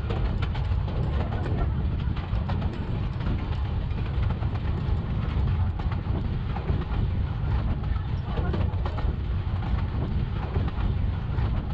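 Narrow-gauge vintage rail car running along the track: a steady low rumble with dense rattling and clicking from the wheels and car.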